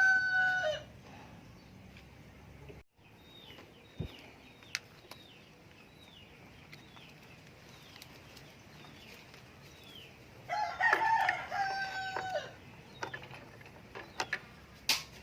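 A rooster crowing twice, the first crow ending just after the start and the second about ten seconds in, each a pitched call that steps between held notes. Faint high chirps of small birds and a few sharp clicks come in between.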